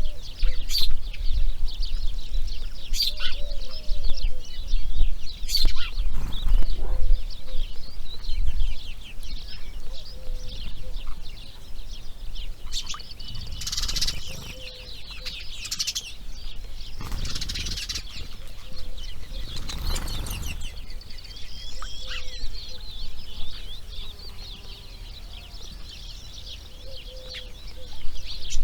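Grey heron nest with rapid ticking, chattering calls of chicks going on throughout. A few brief rushing sounds in the middle, fitting wingbeats, with a low wind rumble on the microphone that is strongest early on.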